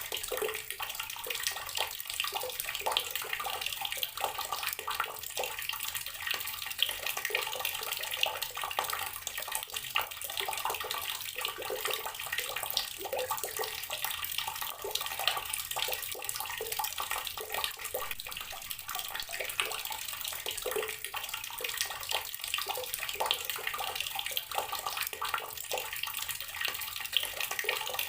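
Water from an outdoor tap running steadily and splashing, with a constant patter.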